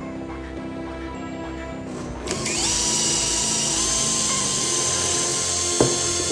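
Background music, then about two seconds in an electric power-tool motor spins up with a rising whine and settles into a steady high-pitched run, with a single sharp click near the end.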